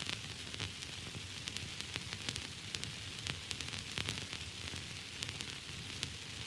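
Static and white noise: a steady hiss with frequent irregular crackles and pops, over a low hum.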